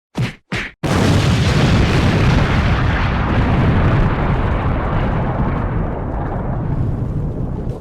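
Two sharp whacks half a second apart, then a sudden loud explosion-like blast that rumbles on, heavy in the low end, and slowly fades.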